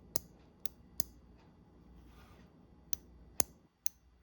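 Microwave door interlock microswitch being pressed and released by hand, clicking sharply about seven times in two groups with a pause of about two seconds between them.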